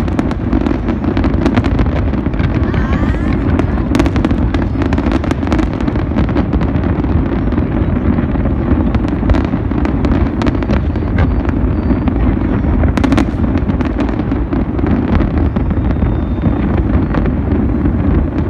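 A large fireworks display with many shells bursting at once: a continuous dense din of bangs and booms, cut through by many sharp cracks, with no pause.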